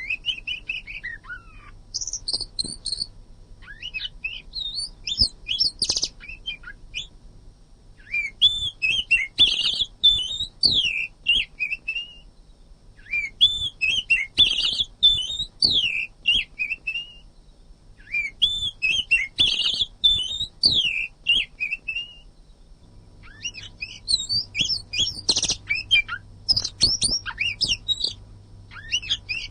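Oriental magpie-robin (kacer) singing a dense, varied song of fast whistled and chirped notes, in phrases of a few seconds separated by brief pauses.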